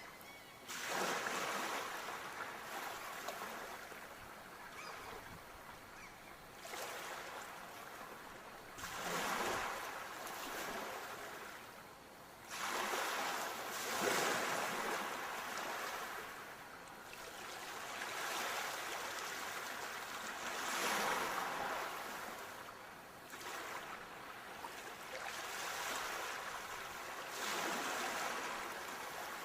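Sea waves breaking and washing up a shore: a steady hiss of surf that swells into a louder rush every several seconds, then drains away.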